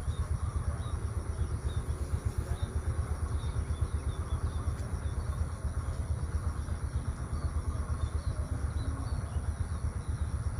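Outdoor morning ambience: a steady low rumble of wind buffeting the microphone, with faint short bird chirps repeating over it and a faint steady high-pitched hum.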